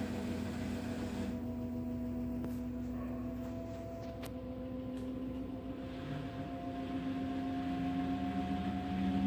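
LG FHV1408ZWP front-load washing machine spinning at its 1000 rpm setting: a steady motor hum with a faint whine creeping slowly up in pitch, growing louder near the end as the drum gathers speed.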